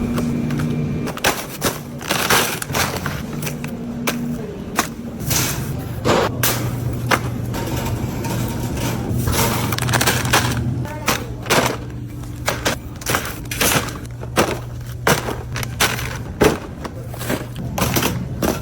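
Irregular clatter of groceries and packaging being handled, with many short knocks, clicks and thuds several times a second, over a low steady hum.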